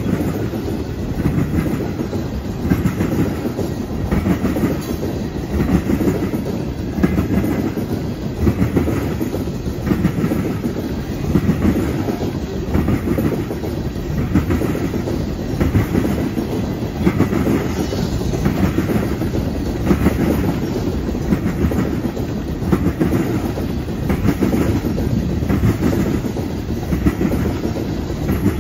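Freight train of tank cars rolling past at close range, steel wheels clacking over the rail joints in a steady clickety-clack rhythm over a continuous rumble.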